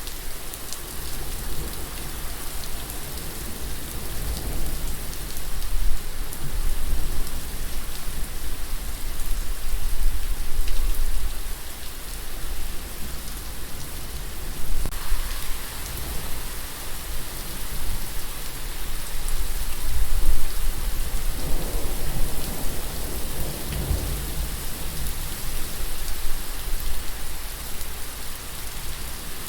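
Steady rain falling, with low rolls of thunder rising and fading a few times; the strongest comes about three quarters of the way through.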